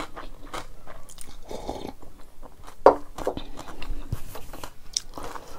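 Close-miked chewing of a mouthful of rice and buffalo meat: irregular wet smacks and small crunches, with a sharp click about three seconds in.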